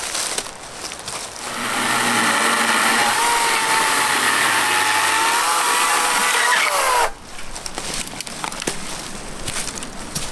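A handheld power tool runs steadily for about five seconds, then is switched off, its pitch falling as it winds down.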